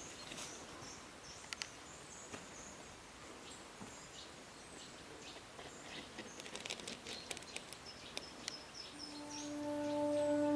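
Faint wild birds calling and chirping in short high phrases over quiet outdoor background noise, with a few light clicks. About nine seconds in, a soft held music note begins and grows louder.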